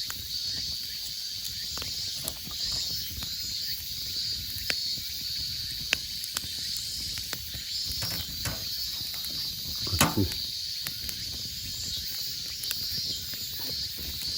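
Campfire of scavenged firewood burning, with scattered crackles and pops, a steady insect drone behind it, and one louder knock about ten seconds in.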